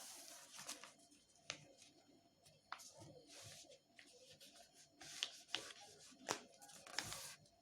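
Faint rustling and crinkling of a sheet of paper being folded and creased, in short rustles with several sharp crackles.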